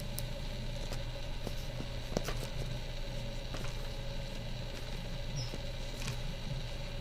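Heat-shrink UltraCote covering film crinkling and ticking in small scattered clicks as a covering iron is worked over it, over a steady low hum.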